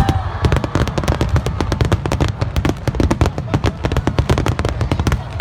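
Aerial fireworks going off in a dense barrage: a rapid run of sharp bangs and crackles, many per second, over a low rumble.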